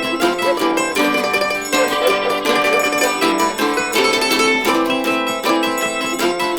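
Mandolin and octave mandolin playing an instrumental tune: quick plucked notes, several a second, over sustained ringing strings.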